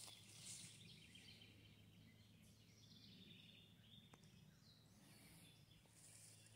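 Near silence: faint outdoor ambience with faint, distant bird chirps.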